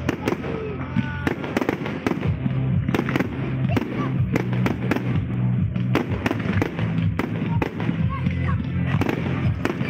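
Fireworks display: a dense run of sharp bangs and crackles from aerial shells bursting, several a second, over music with steady low bass notes.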